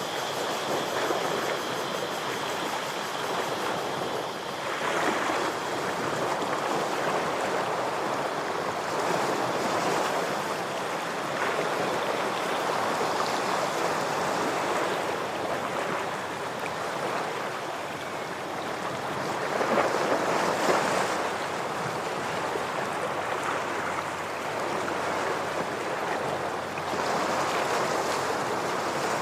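Ocean waves washing against shore rocks, a continuous rushing surf that swells with each incoming wave every few seconds.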